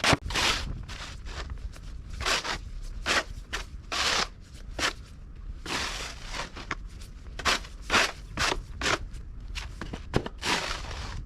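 Footsteps crunching through fresh snow: a run of short, uneven crunches, about one or two a second.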